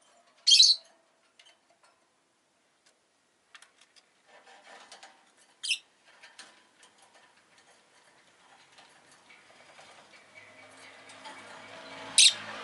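Rosy-faced lovebird giving three short, sharp chirps about five seconds apart, with faint ticking between them. A passing vehicle's engine rumbles in from about two-thirds of the way through and grows louder toward the end.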